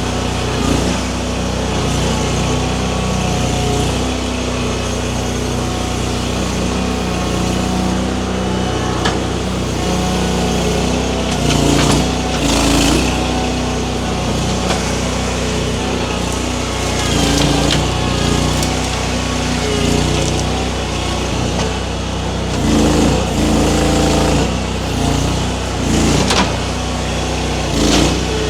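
Mini skid steer's engine running steadily under hydraulic load, swelling in level several times as the grapple works at pulling a small tree, with a few short knocks along the way.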